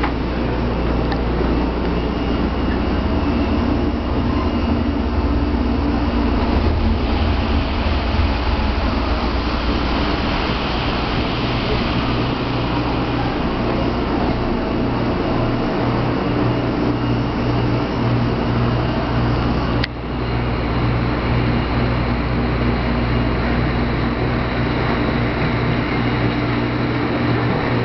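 Steady hum and whir of a stationary 0-series Shinkansen train standing at the platform, with a brief dip about twenty seconds in.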